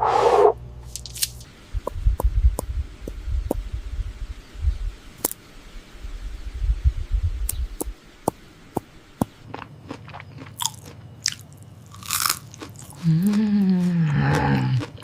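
Crunching and chewing, with scattered clicks, then a short pitched call that rises and falls near the end.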